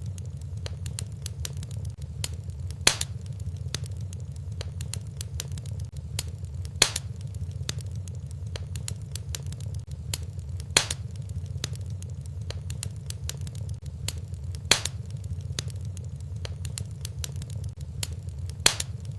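Wood fire in a fireplace crackling, with a steady low rumble under many small snaps and a louder pop about every four seconds.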